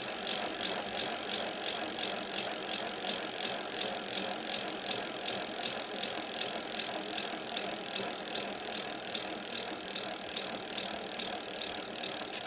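Bicycle sound effect: a bike rolling along with steady tyre and wheel noise and a fast, regular ticking from the chain and freewheel, starting and stopping abruptly.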